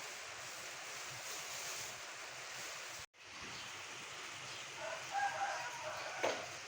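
Steady background hiss that cuts out completely for a moment about three seconds in. Faint short pitched calls follow, then a sharp click near the end.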